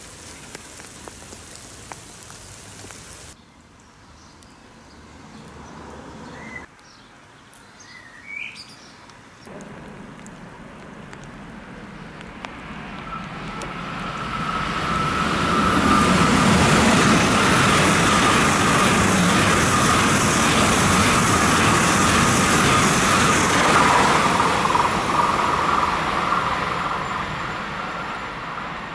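A train passing through a station, building from about halfway to a loud steady rumble with a steady high tone over it for several seconds, then fading. Before that, rain patters on pavement for the first few seconds and a few bird chirps come through.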